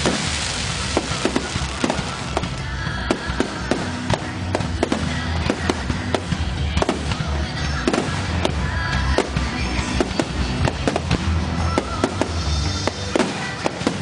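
Fireworks going off in quick succession: many sharp bangs and crackles, several a second, over music.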